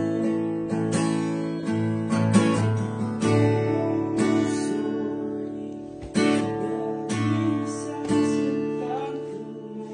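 Slow acoustic guitar strumming of a ballad, with new chords struck about once a second, in the instrumental gap between the song's sung lines.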